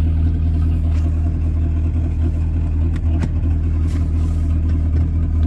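A Volkswagen Jetta TDI's diesel engine running, heard from inside the cabin as a steady low drone, with a couple of faint clicks about three seconds in.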